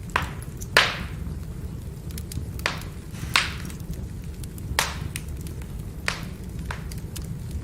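Firewood burning, crackling with sharp pops every second or so, the loudest about a second in, over a steady low rumble of the flames.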